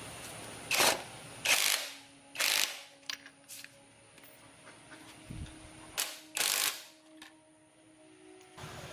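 Mechanic's hand tool ratcheting in five short bursts: two in the first second and a half, one at about two and a half seconds, and two close together about six seconds in, with light clicks between.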